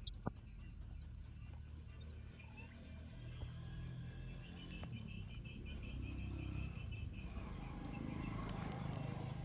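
Cricket chirping in a fast, very regular rhythm of about four high-pitched chirps a second.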